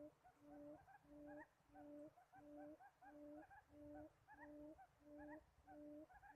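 Faint bird calls: a steady low hooting note repeated about three times every two seconds in an even rhythm, with short rising chirps between the notes.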